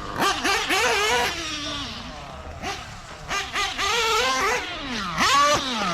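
Nitro engine (Adam Drake 2) of a Mugen MBX-8T radio-controlled truggy revving up and down again and again as it is driven, its pitch climbing sharply with each burst of throttle and dropping off between them.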